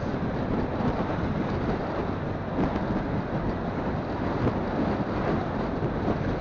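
Wind rushing and buffeting over a phone's microphone on a moving motorcycle, with the bike's engine and road noise underneath as a steady rumble.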